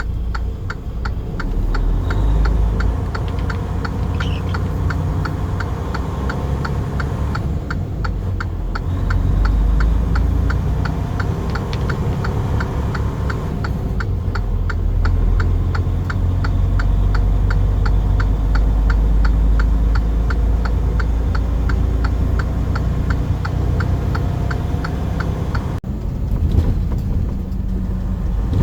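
Truck's engine and road noise while driving, a steady low rumble, with a regular ticking a couple of times a second laid over it.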